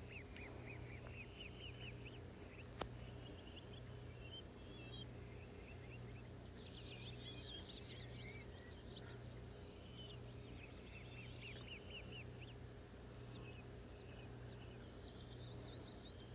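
Faint bird chirps in short, quick runs, repeating on and off over a steady low hum, with a single sharp click about three seconds in.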